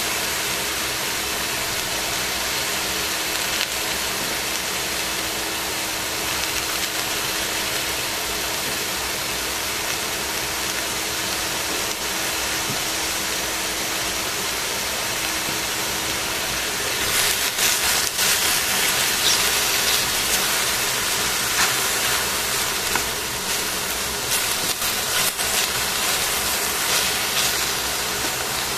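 Sliced cabbage, carrot and mushrooms sizzling in a stainless steel pan, a steady hiss of frying and steam. About halfway through the sizzle turns louder and crackling, with tongs clicking against the pan near the end as the vegetables are turned.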